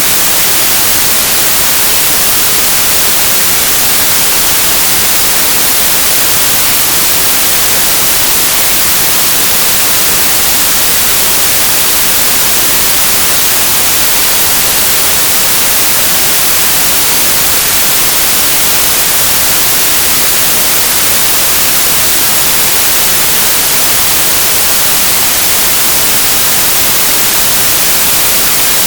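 Synthesized white noise: a steady, even hiss, bright and flat across all pitches, with no changes or events.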